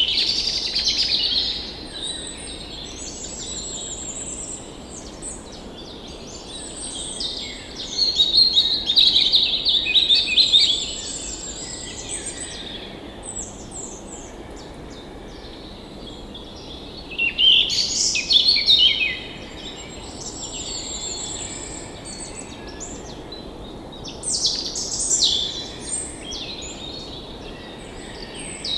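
Several songbirds chirping and trilling in bouts, the loudest bursts near the start, about a third of the way in, around two thirds and near the end, over a steady background hiss.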